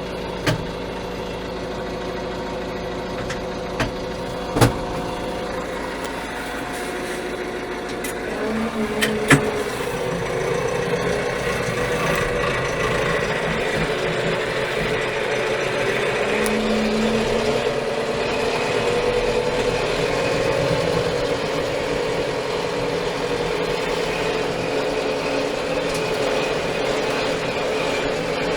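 Steyr 4075 Kompakt tractor's four-cylinder Fiat Powertrain diesel engine running steadily, with a few sharp knocks in the first ten seconds. About eight seconds in, the engine speed picks up and it runs a little louder.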